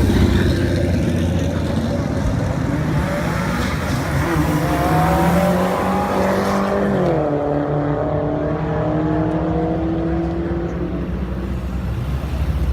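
Drag-racing car accelerating hard down the strip, its engine note climbing, dropping sharply once at a gear change about seven seconds in, then climbing again.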